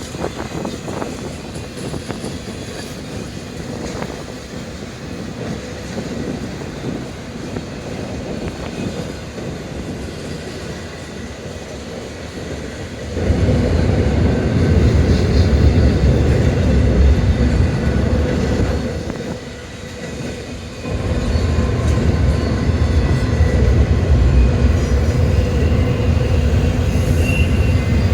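Freight train rolling past on the rails. The rumble grows much louder about thirteen seconds in, drops back briefly around twenty seconds, then comes up loud again.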